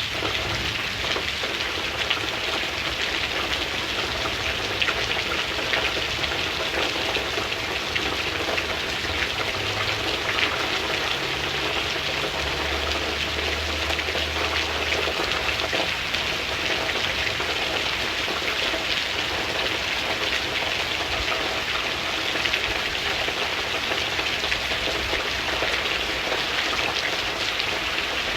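Steady rain falling, an even hiss of many drops on a surface, with a faint low rumble now and then.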